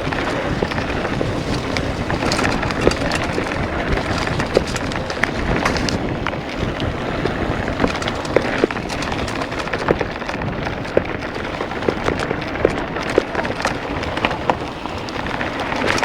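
Steady rushing noise, like wind on the microphone, with many sharp clicks and rattles scattered throughout.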